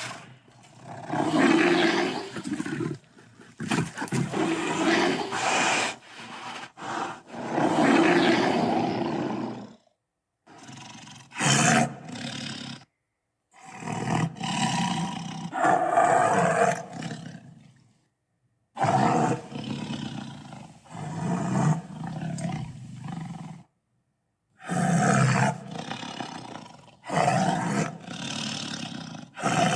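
Tyrannosaurus rex roar sound effects: one roar or growl after another, each a few seconds long, with short cut-off silences between them.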